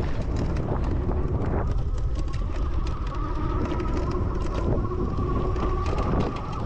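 Wind buffeting the microphone and the rattle of a pedal-assisted bike rolling along, with a steady high whine setting in about two seconds in and stopping near the end.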